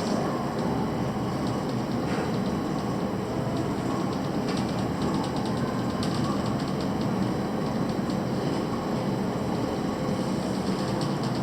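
Steady low rumble of passing vehicles, with faint clicking ticks now and then.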